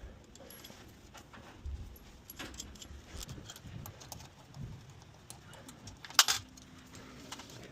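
Small metal parts clinking and knocking as pipe-support hardware is handled, with one sharp loud knock about six seconds in. A faint steady hum starts right after the knock.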